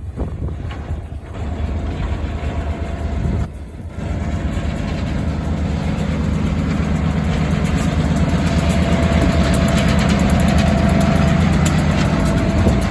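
Diesel locomotive engine of the Buffalo & Pittsburgh EMD SW1500 switcher running, a steady low drone with a thin steady whine above it. It drops out briefly about three and a half seconds in, then comes back and builds louder as the locomotive draws near.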